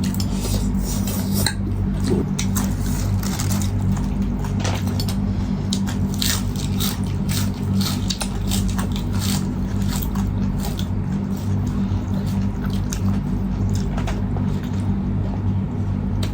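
Mealtime eating sounds: cutlery clinking and scraping on plates, with chewing and bites of food, as a string of short clicks over a steady low hum.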